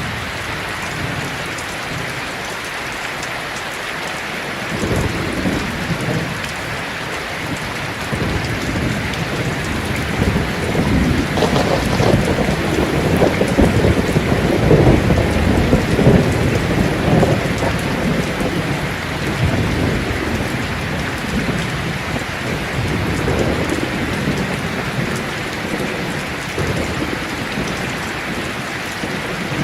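Heavy rain drumming steadily on a tin roof, with thunder rumbling: a short roll about five seconds in, then a longer roll that builds to its loudest around the middle and slowly dies away.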